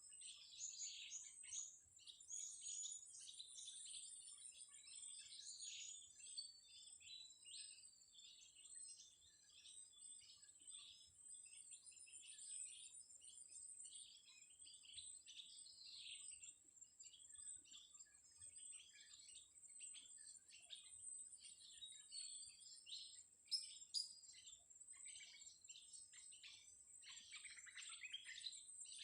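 Blue-crowned hanging parrots (serindit) chattering faintly: a rapid, nearly continuous stream of short, high, thin chirps and twitters over a steady high-pitched whine.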